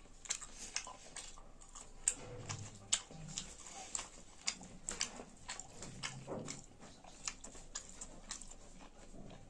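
Close-up mukbang eating sounds: a person chewing and smacking, with many short, sharp wet mouth clicks and a few soft low murmurs.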